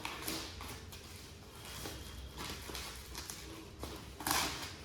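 Light taps and rustling from handling the puzzle's wooden pieces and their packaging, with a louder rustle about four seconds in.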